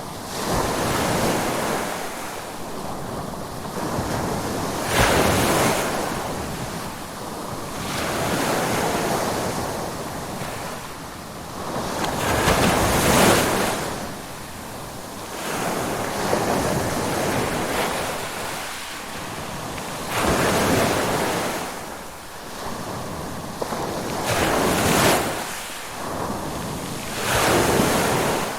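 Ocean waves breaking and washing on a shore, the surf swelling and fading about every four seconds, with wind noise.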